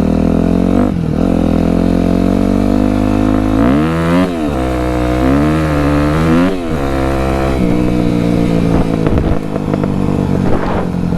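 Dirt bike engine running very loud, close up, holding steady revs, then revving up and dropping back twice, about four and six and a half seconds in, before settling to a steadier, lower note.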